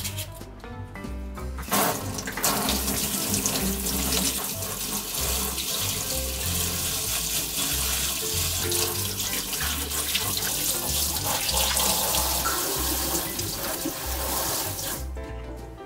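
Kitchen tap running into a stainless-steel sink while a bunch of green stalks is rinsed under the stream; the water starts about two seconds in and stops near the end. Background music with a steady beat plays underneath.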